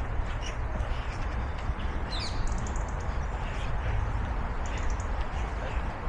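Birds calling over a steady low outdoor rumble: a short falling call about two seconds in, followed by a quick run of high chirps, and another quick run of chirps near the end.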